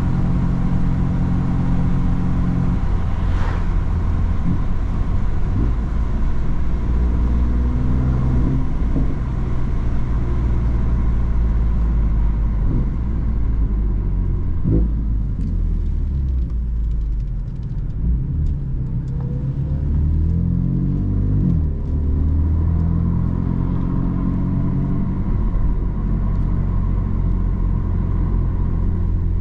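BMW M3 F80's twin-turbo inline-six running through an M Performance exhaust while driving. The engine note climbs and drops as it accelerates and shifts, with a quick run of rising revs about two-thirds of the way through.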